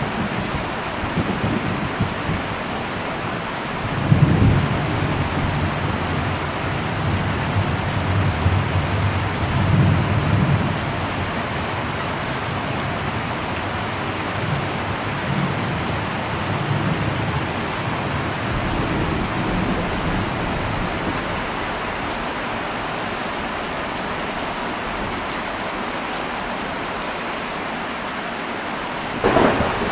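Heavy rain falling steadily on an old metal roof, with low rolls of thunder rumbling from about four to eleven seconds in and again more faintly later. A sharper, louder thunderclap breaks in just before the end.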